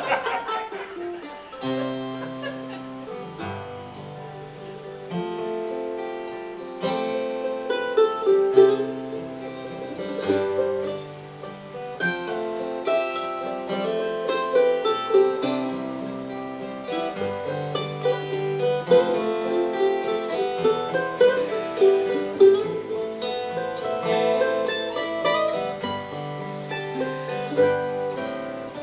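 Guitar playing the instrumental introduction to a slow song: plucked notes over changing bass notes, before any singing comes in.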